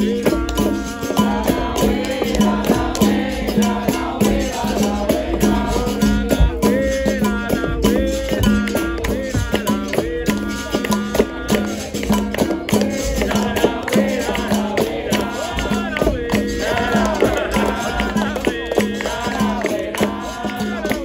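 Capoeira roda music: berimbaus rocking between two low notes with a caxixi shaker rattle, over steady hand percussion, with group singing on top.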